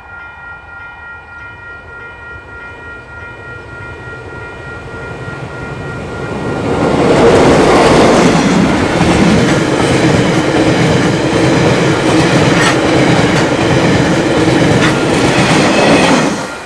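A train approaching and passing close by: its running noise builds over several seconds to a loud, steady rush with repeated wheel clicks over the rail joints, then cuts off suddenly near the end.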